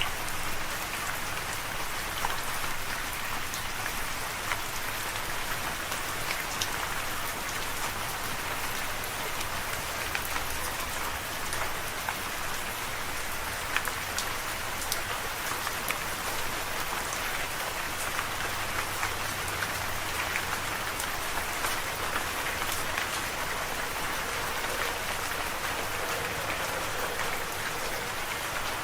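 Steady rain falling, an even hiss of rain with many individual drops tapping through it.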